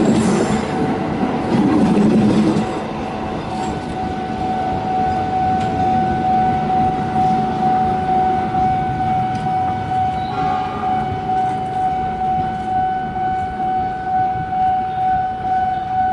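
Passenger train coaches rumbling over the rails as the last car passes close, fading after about three seconds as the train moves away. From then on a steady high warning tone sounds, pulsing gently in loudness.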